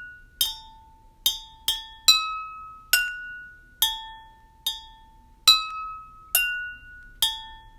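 Drinking glasses holding different amounts of water, tapped one at a time with a spoon to play a simple melody: about ten clear ringing notes at a few different pitches, each ringing on briefly after the tap.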